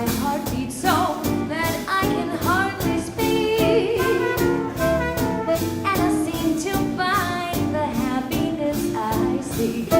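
Live swing band playing: saxophone and brass lines over a steady swinging drum beat.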